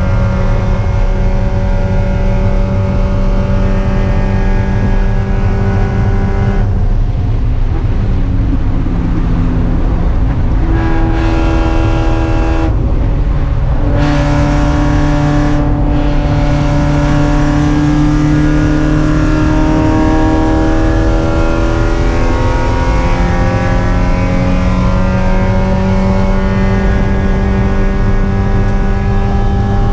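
Spec Miata's four-cylinder race engine running hard. It holds a steady note, then drops and changes pitch in steps for several seconds about a third of the way in, as it lifts and shifts gears. It then climbs steadily in pitch, with one upshift about two-thirds of the way through.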